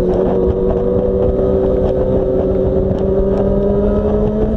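Inline-four sport motorcycle engine running under steady throttle while riding, its pitch rising slowly as the bike gains speed, with a low rumble of road and wind noise underneath.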